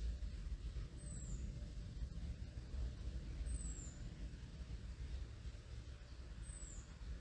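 Low, steady rumble of an aircraft overhead, with a high, thin, downward-sliding bird call repeated three times a couple of seconds apart.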